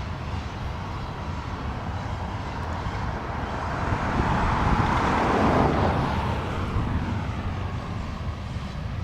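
Freight train rolling past: a steady rumble of wheels on rail over a low diesel drone, swelling louder for a couple of seconds around the middle and then easing off.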